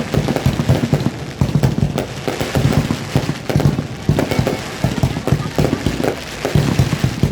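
Fireworks going off close by: a dense, unbroken run of rapid bangs and crackles.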